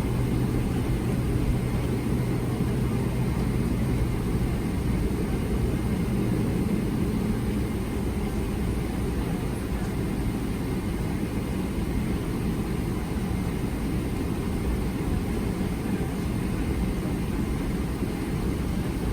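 Steady low rumble inside the cabin of a Boeing 777-300ER, from its engines and air-conditioning, with a faint hum that fades about four seconds in.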